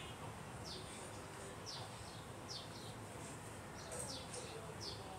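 Faint bird chirps: a string of short, high, falling notes, several to a second at times, over a low steady room hum.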